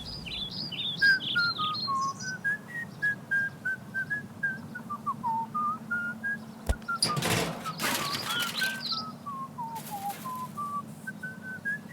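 A whistled tune, one clear note at a time, stepping up and down. Quick high cheeps of a newly hatched chick sound over it near the start and again about eight seconds in, with a couple of swishes a little after seven seconds.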